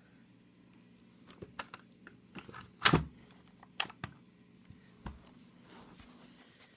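Scattered plastic clicks and knocks from handling the Dyson V10 cordless vacuum's clear dust bin while it is opened and emptied, with the loudest knock about three seconds in.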